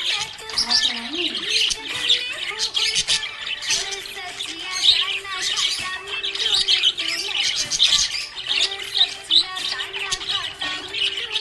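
A flock of budgerigars chirping and chattering, with many short overlapping chirps and squawks going on continuously.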